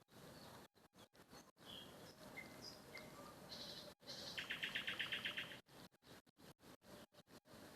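Wild songbirds chirping: a few short, high chirps, then about four seconds in a rapid trill of roughly ten notes a second lasting just over a second, the loudest sound.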